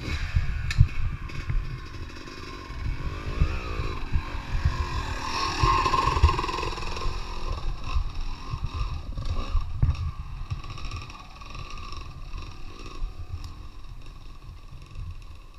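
Dirt bike engine running and revving, its pitch climbing to a peak about six seconds in and then easing off, over a heavy, uneven low rumble with occasional knocks.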